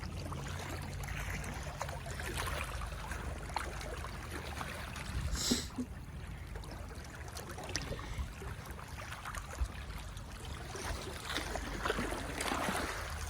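High tidal floodwater sloshing and trickling over both sides of a causeway, a steady splashing wash with a low rumble under it. About halfway through, one brief sharper sound stands out.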